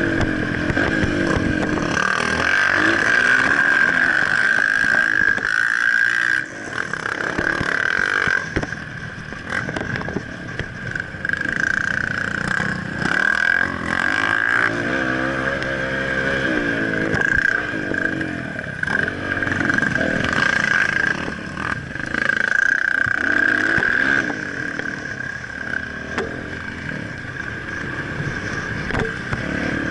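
Motocross dirt bike engine revving up and down as it is ridden, its pitch rising and falling again and again, with a steady high whine throughout.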